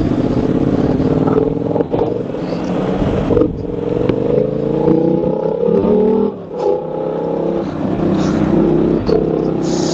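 Motorcycle engine heard from the rider's position, pulling away and gaining speed. Its pitch rises steadily, breaks off briefly about six and a half seconds in, then climbs again, like a gear change. A steady rush of wind or road noise runs underneath.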